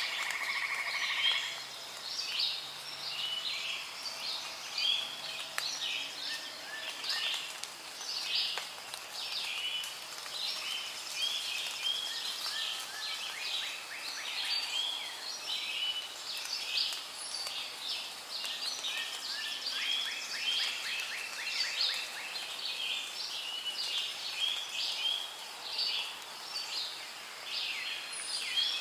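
Rainforest ambience: many birds calling at once in a dense, continuous chatter of short chirps and warbles, over a faint steady hiss.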